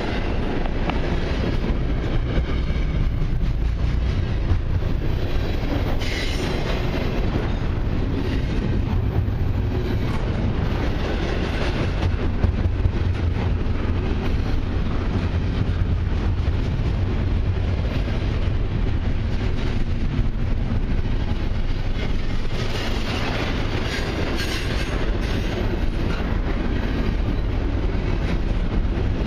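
Long CN intermodal freight train's cars rolling past at track side: a steady deep rumble with wheels clacking over the rail joints, and a higher wheel squeal at times, most clearly toward the end.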